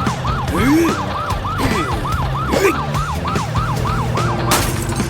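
Cartoon police siren in a fast yelp, rising and falling about four times a second over background music, with a few short sliding sound effects. The siren cuts off near the end with a short burst of noise.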